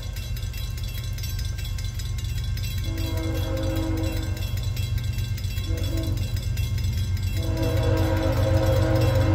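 Diesel locomotive air horn of Norfolk Southern heritage unit NS 8114 blowing in blasts (long, long, short, then long), the grade-crossing pattern, as the train approaches. Its chord has one bell that sounds not fully working. Under it the locomotive's low engine rumble grows steadily louder.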